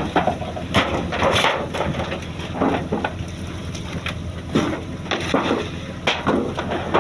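A fishing boat's engine runs steadily underneath irregular knocks, cracks and crunching clatter.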